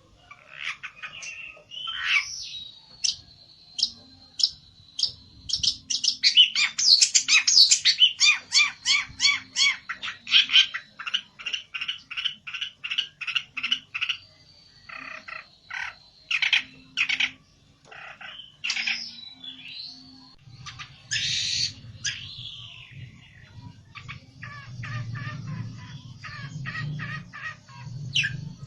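A pelentet songbird singing agitatedly: fast runs of short, sharp chirps repeated several times a second, broken by trills and harsher squawk-like notes. This is its fired-up song, the challenge a male gives when it seeks a rival.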